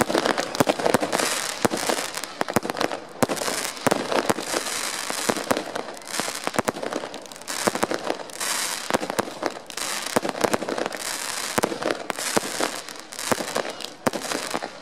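Fireworks display: a dense, continuous run of crackling and popping, with many sharp pops and swells of fizzing crackle.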